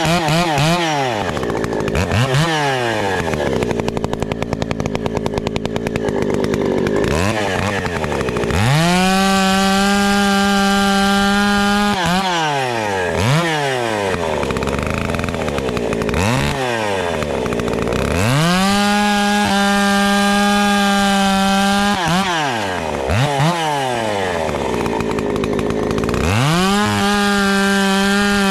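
Two-stroke chainsaw running at full throttle and holding there for a few seconds at a time, three times. In between it drops back to idle, with short throttle blips that rise and fall.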